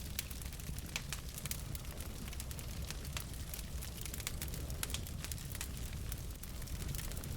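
Wood fire burning in a fireplace: logs crackling and popping in sharp, irregular clicks over a low, steady rumble of the flames.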